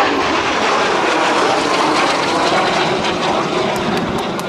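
Aero L-39 Albatros jet trainer making a low pass: a steady loud jet roar from its single turbofan, with a faint whine sliding down in pitch as it goes by.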